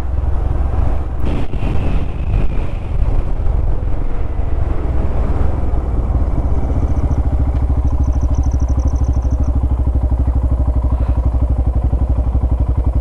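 Motorcycle engine running, uneven at first, then settling about five seconds in into a steady, even beat.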